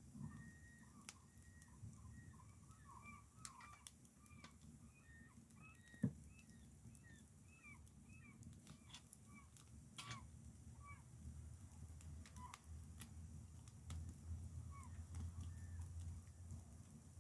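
Faint chirping of small birds, many short notes, with scattered faint clicks and one sharp knock about six seconds in.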